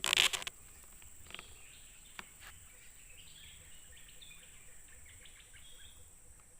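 A brief loud rustling burst in the first half second, then birds chirping intermittently over a faint steady background of insects.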